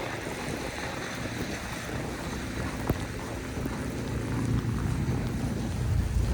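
Storm wind buffeting the microphone as a low, uneven rumble that grows stronger in the last couple of seconds, with one sharp click about three seconds in.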